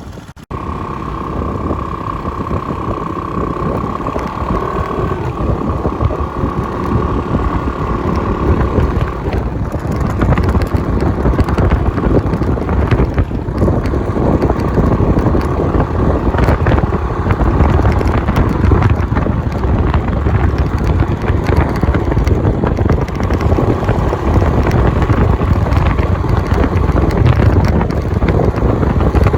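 Wind buffeting the microphone on a moving Suzuki Skydrive 125 scooter, with the engine running underneath. A steady high whine sits over it for the first several seconds, and the wind rumble gets louder about ten seconds in.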